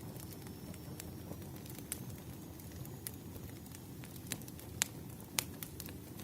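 Wood fire burning: irregular sharp pops and snaps of burning firewood over a low steady rush, with the loudest two pops a little past the middle.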